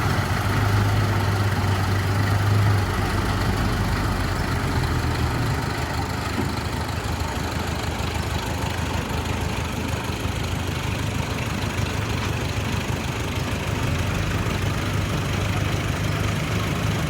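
Heavy diesel engine of a bulldozer running steadily at low revs, a little louder for the first few seconds.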